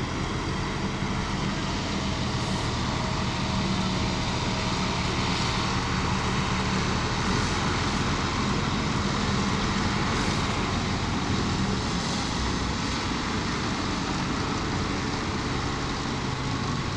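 Heavy engine running steadily, a low even hum under a wide noisy wash, with no change in speed.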